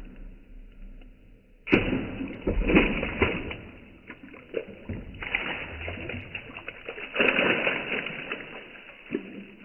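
Broken roof-tile shards dropping into a bucket full of rainwater, splashing three times: a sudden splash just under two seconds in, another about five seconds in and a third about seven seconds in, each dying away over a second or two.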